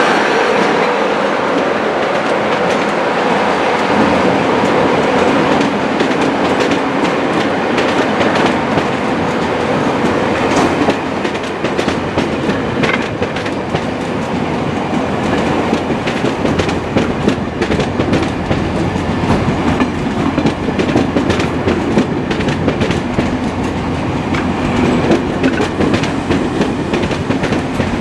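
Train running on the rails, its wheels clattering over the rail joints with a steady rumble and many sharp clicks.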